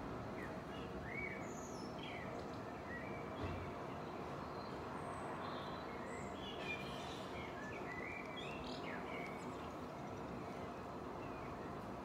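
Songbirds chirping and singing, many short varied chirps and whistles, some sliding in pitch, scattered all through. A steady background hiss of distant environmental noise runs beneath.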